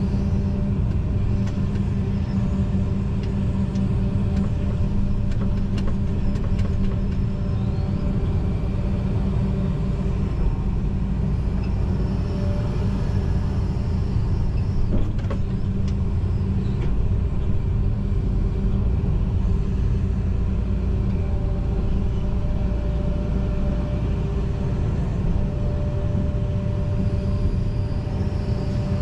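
John Deere 245G excavator's diesel engine running steadily under working load, heard from inside the cab, with a few faint knocks.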